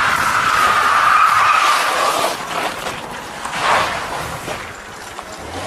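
Car tyres skidding with a long squeal that falls slightly in pitch, then a shorter second squeal nearly four seconds in: a car sliding as it comes around the corner.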